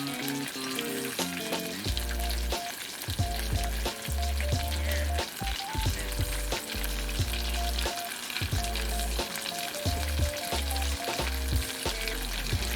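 Background music, simple stepped synth-like notes with a bass line that comes in about two seconds in, over a steady crackling sizzle.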